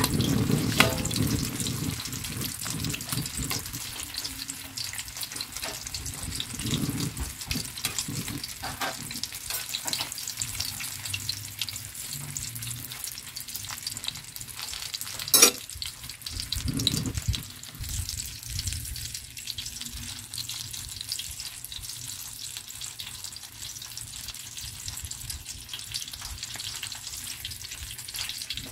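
Breaded eggplant rolls frying in hot oil in a pan: a steady sizzle with constant small crackles and pops. Metal tongs knock against the pan now and then while turning the rolls, with one sharp clack about halfway through.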